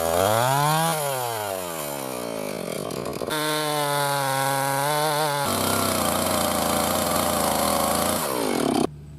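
Chainsaw revved up and cutting through a log, its engine pitch rising and falling with the throttle and sagging under load in the cut. Near the end the throttle is released and it drops sharply to a low idle.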